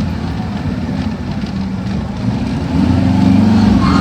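Diesel semi truck engines running at low revs, growing louder about three quarters of the way through.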